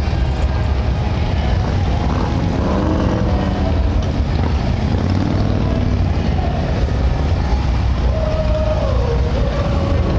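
Motorcycle engines running, a loud steady low drone with pitched sounds rising and falling over it.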